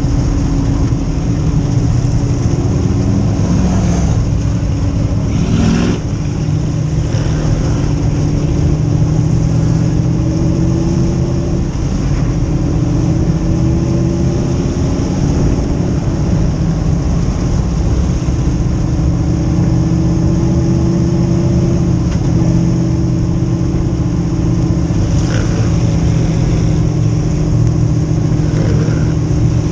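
Race car engines running, several pitches at once drifting slowly up and down, with no sharp revs. The sound changes slightly about six seconds in.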